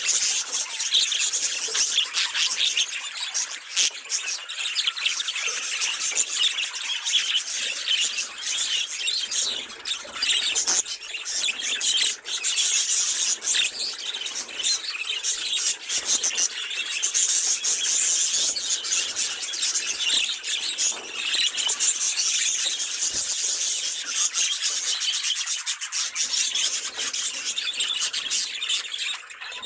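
A flock of pet budgerigars warbling and chattering together, a dense, continuous high-pitched twitter with rapid squeaks and clicks.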